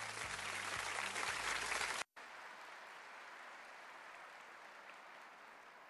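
Audience applauding. The sound cuts off abruptly for a moment about two seconds in, then the applause goes on more faintly.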